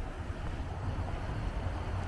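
Steady, low wash of big ocean waves breaking, mixed with wind buffeting the microphone.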